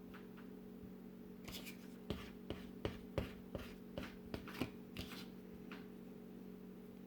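Hands working and stretching bread dough: a quick run of about a dozen light taps and pats in the middle, over a steady low hum.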